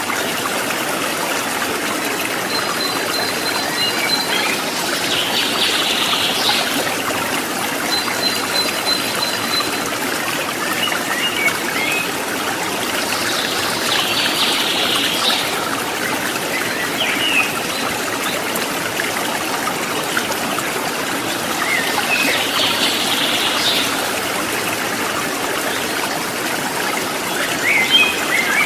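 Running stream water trickling and splashing steadily, with a few short high chirps now and then.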